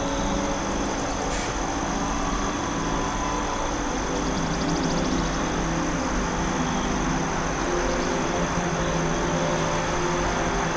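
Forest nature ambience: a steady, even rush of noise under a constant high-pitched tone. A faint rapid trill comes in about halfway through, and there is a soft click early on.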